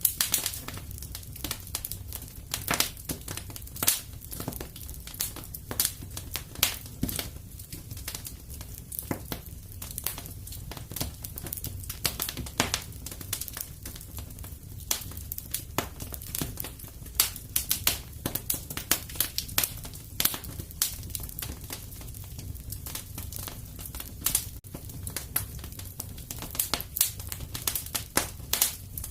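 Wood fire in a fireplace burning steadily, with dense irregular crackles and pops over a low rumble of the flames.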